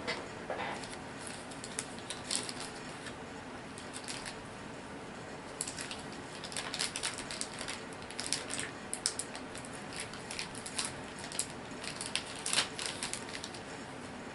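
Light clicks and crinkles of small plastic miniatures and booster packaging being handled, in scattered irregular clusters.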